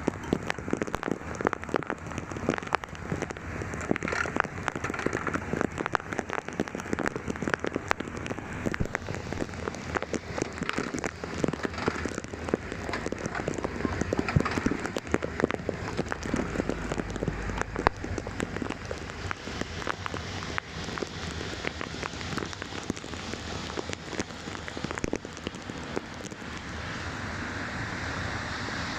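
Heavy rain falling, a dense patter of drops over a steady wash of noise, which turns into a smoother, steadier hiss near the end.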